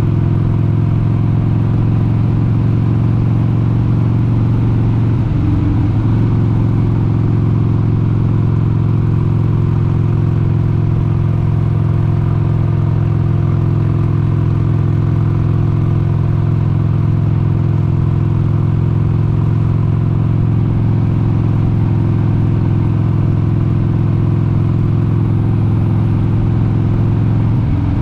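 1996 Harley-Davidson XLH883 Sportster's 883 cc air-cooled V-twin running steadily at cruise under way. The engine note breaks briefly about five seconds in and again near the end.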